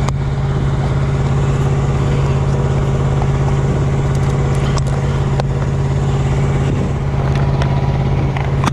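Truck engine idling steadily, a loud even low hum, with a few light clicks and knocks over it.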